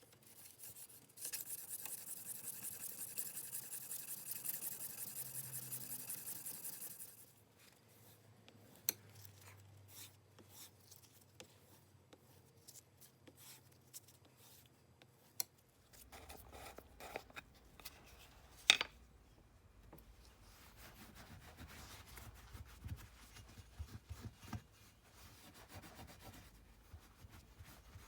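Steel plane iron worked back and forth on an abrasive in quick, even, hissing strokes for about six seconds. Then come scattered light clicks and rubbing as metal plane parts are handled, with one sharp click in the second half.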